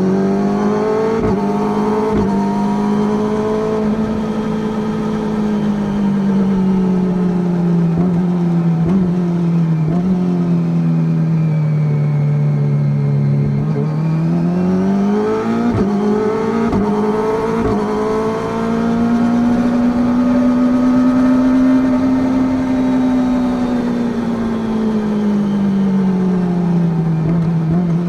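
Kawasaki ZX-25R's 249 cc inline-four running through an Akrapovič full-carbon racing exhaust, ridden at steady throttle with the engine note easing down and swelling up in slow waves. The pitch sinks about halfway through, then climbs quickly and holds high before falling again near the end.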